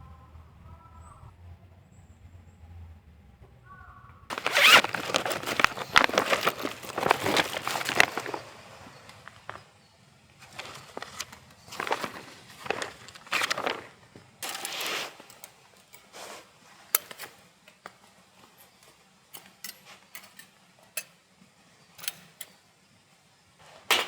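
Irregular rustling and scraping handling noises, loudest and densest from about four to eight seconds in, then thinning into scattered short rustles and sharp clicks and knocks.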